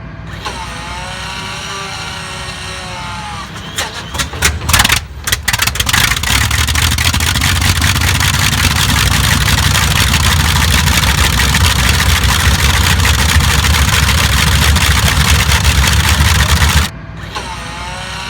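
A large WWII aircraft piston engine being started: it coughs and pops irregularly for a couple of seconds as it catches, then runs loud and steady. The sound cuts off suddenly near the end, leaving a quieter wavering engine hum.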